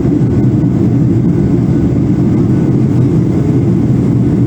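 Steady low roar of an airliner's cabin noise, engine and airflow drone heard from a passenger seat.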